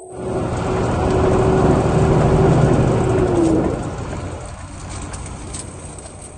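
Road vehicle noise, engine and tyres, that starts abruptly, swells over about two seconds and then fades away.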